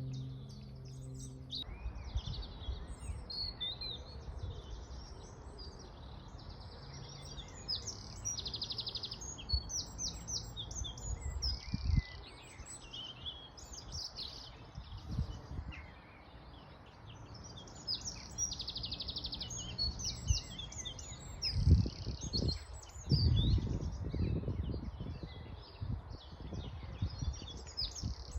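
Several songbirds singing and chirping together in a dense, continuous chorus over a steady background hiss. Low rumbles come once about halfway through and again near the end.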